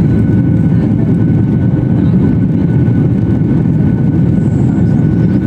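Airplane engine and airflow noise during takeoff: a loud, steady low rumble with a faint high steady tone above it.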